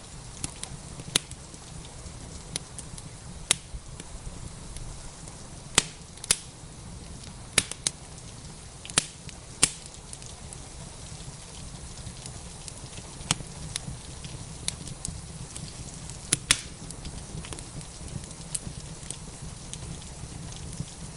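Wood fire crackling, with sharp pops at irregular intervals over a steady hiss of rain and a low rumble.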